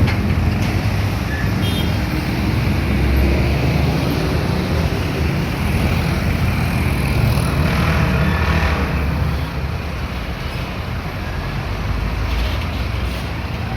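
Heavy highway traffic: trucks passing with a steady low engine rumble, and one vehicle passing close about eight seconds in.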